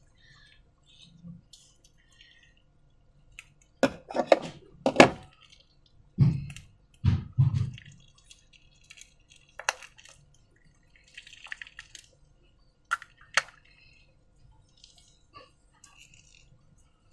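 Slime being worked by hand: wet, sticky squelches and clicks, irregular, with a cluster of louder ones between about four and eight seconds in.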